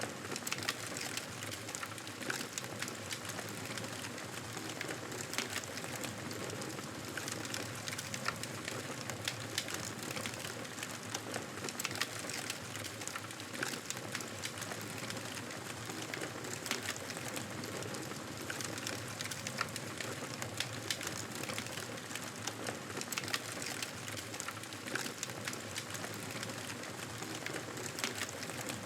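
Wood fire crackling steadily, with frequent sharp pops and snaps over a continuous hiss.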